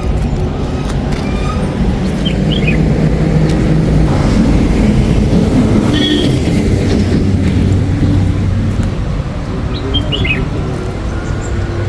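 Car driving on a hill road, with steady engine and road noise. Two short bird chirps come through, one a couple of seconds in and one near the end.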